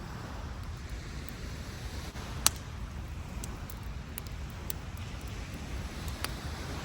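Beach campfire crackling, with scattered sharp pops and one loud pop about two and a half seconds in, over a steady low rumble of surf and wind.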